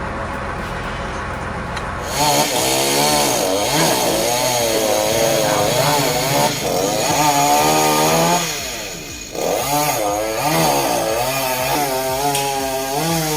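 A low machine rumble for about two seconds, then a chainsaw running hard, its engine pitch rising and falling over and over as it revs and cuts. About nine seconds in the engine drops away briefly and climbs straight back up.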